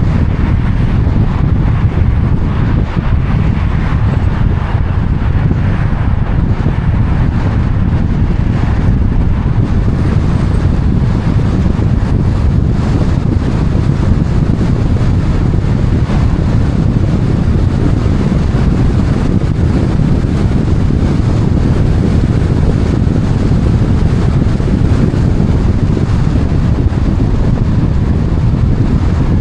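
Wind buffeting the microphone: a loud, steady low rumble with a hiss above it and no breaks.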